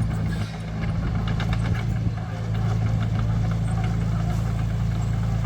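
Heavy diesel engine of construction machinery running steadily at a low, even speed, with a brief run of light metallic rattles about a second in.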